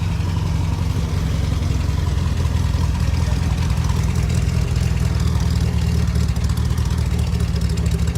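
A vehicle engine idling steadily and close by.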